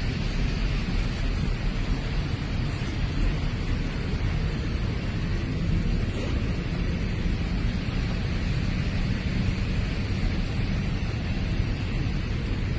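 Steady jet airliner engine noise, a low rumble under an even hiss, from an Airbus A350.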